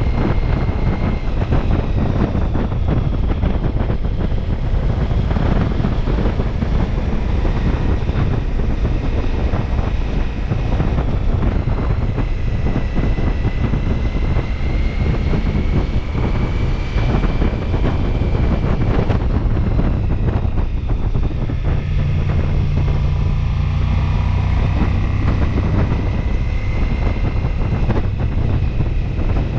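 Ducati Multistrada V4 S riding at speed: heavy wind buffeting on the microphone over the V4 engine running underneath, its pitch slowly rising and falling.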